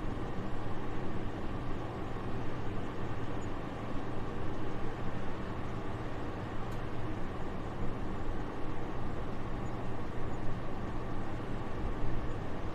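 Soft, steady winter wind: an even, airy hiss weighted toward the low end, with no gusts or other detail.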